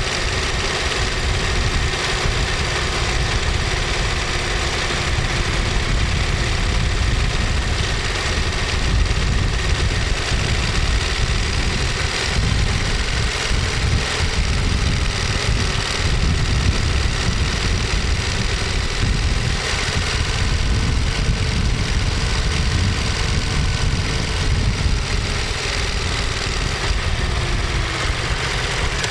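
Ducati Monster 1200S's L-twin engine running steadily through its exhaust, a deep even rumble whose pitch wavers a little and drops slightly near the end.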